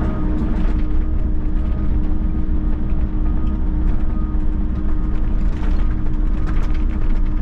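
Volvo EC60E mini excavator's diesel engine running steadily under working load.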